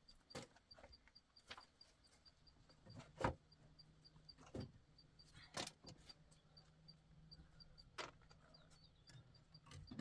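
Near silence broken by faint, scattered knocks and clicks, about six in all, the loudest about three seconds in, with a faint low hum through the middle.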